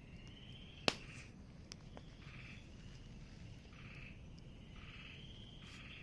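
Wood fire crackling, with one sharp pop about a second in and a couple of fainter snaps, over frogs calling in short repeated trills about once a second.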